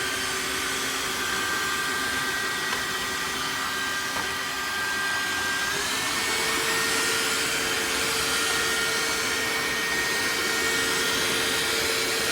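Tineco iFLOOR 3 cordless wet-dry floor cleaner running with a steady motor whine. About six seconds in, the whine steps up in pitch as the machine changes its power level to suit the mess.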